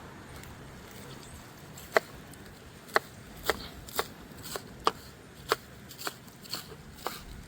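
Knife slicing ground provisions into thin pieces: a string of sharp taps, about one to two a second, starting about two seconds in.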